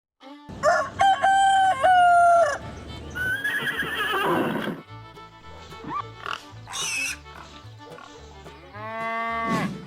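A series of different farm animal calls, one after another, over background music with a steady repeating bass beat.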